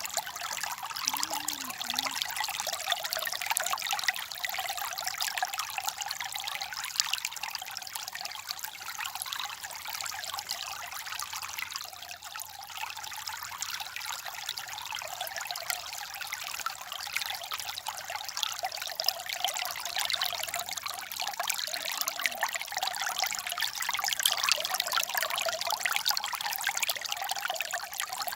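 A small stream trickling and gurgling over stones, a steady flow of water.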